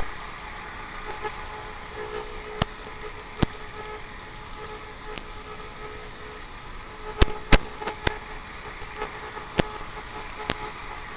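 Model train running: a steady hum broken by scattered sharp clicks, several close together about seven seconds in.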